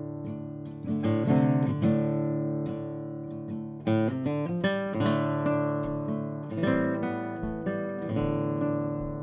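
Background music: acoustic guitar strummed and picked, chords ringing and decaying between strums.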